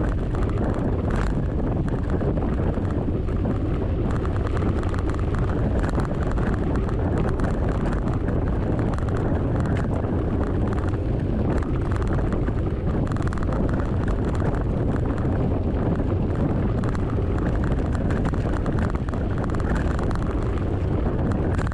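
Wind buffeting the microphone of a camera riding on a moving mountain bike, a steady low rushing rumble mixed with trail noise from riding over bumpy ground.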